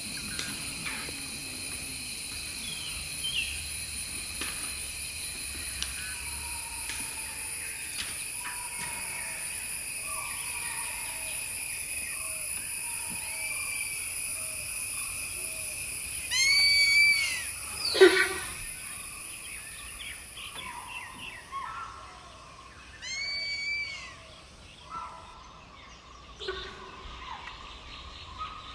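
Forest ambience: a steady high insect drone with birds calling over it. About 16 and 23 seconds in comes a quick run of short arching calls, and a single sharp, loud call rings out at about 18 seconds. The insect drone fades out over the last few seconds.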